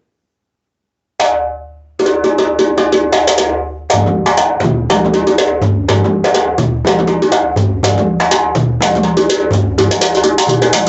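Guinea Lenke djembe with a tightly tuned buffalo calfskin head, played by hand. A single ringing stroke about a second in, then a fast, steady rhythm of sharp high strokes with deep bass notes mixed in.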